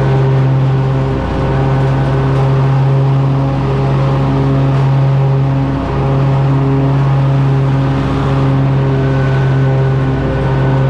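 Kohler engine on a Country Clipper riding mower running steadily at constant speed, a strong even hum with small dips in level every few seconds.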